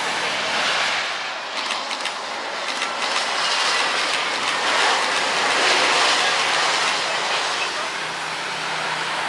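Jet airliner landing: a steady rushing roar of engine noise that swells a little around the middle, with a few faint clicks about two seconds in.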